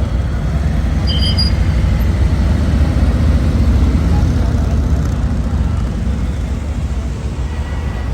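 Traffic of a passing police motorcade on a city street: a steady low rumble of motorcycle and SUV engines and tyres that eases off slightly toward the end.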